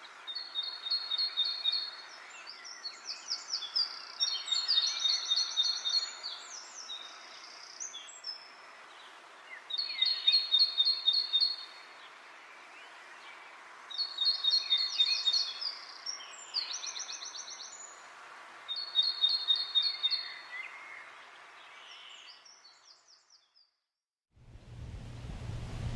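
A songbird singing short phrases of rapid trilled notes, repeated every few seconds, over a steady rustle of wind in leaves. Near the end the sound fades to a brief silence, and a low steady humming noise begins.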